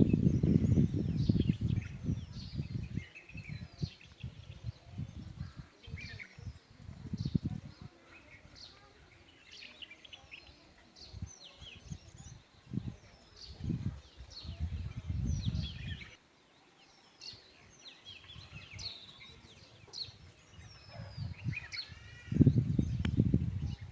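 Several birds chirping and calling in short, quick notes throughout, over irregular gusts of low rumbling noise that are loudest at the start and near the end.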